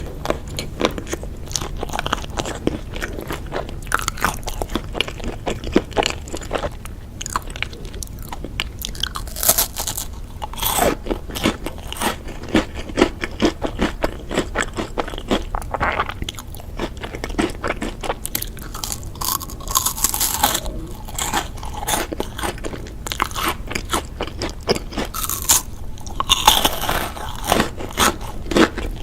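A person biting and chewing crunchy snack food: a continuous run of crunches with louder bites now and then.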